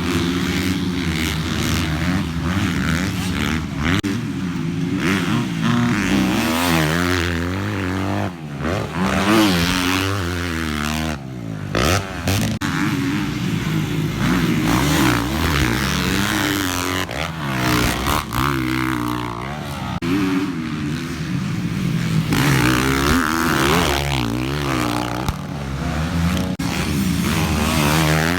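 Motocross dirt bike engine revving up and down repeatedly as it is ridden, the throttle opening and closing through a practice track, with a brief dip in the engine note about eight seconds in.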